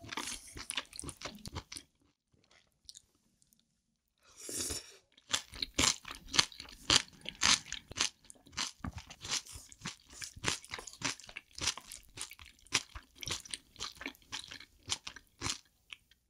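Close-miked chewing of spicy steamed octopus, abalone and bean sprouts, with crisp crunching in quick, dense bites. A short breathy rush about four seconds in, then steady crunching until near the end.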